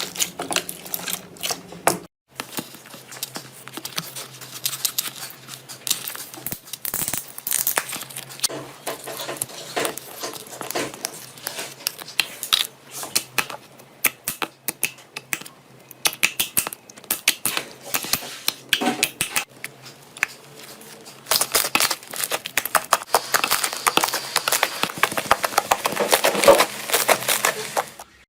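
Slime being squeezed and pressed by hand, making dense runs of crackling, popping clicks. There is a short break about two seconds in, and the crackling turns denser and louder for the last several seconds.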